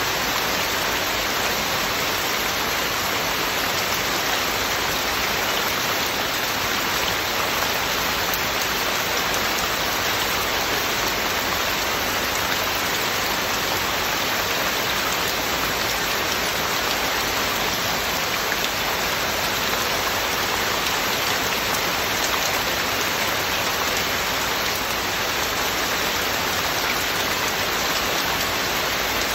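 Heavy rain falling steadily: a dense, even hiss of drops on surfaces, with no thunder or other sounds.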